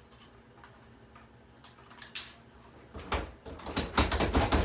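Screws and small odds and ends clattering as they are dropped into a vacuum cleaner: a few scattered clicks, then a dense, loud rattling clatter from about three seconds in.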